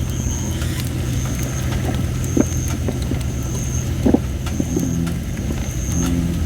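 Campfire of thin, under-dried red robin (Photinia) wood: a thin high hiss that comes and goes from the damp wood, and a few sharp pops about two and a half and four seconds in. Short low croaks from bullfrogs come twice in the second half, over a steady low rumble.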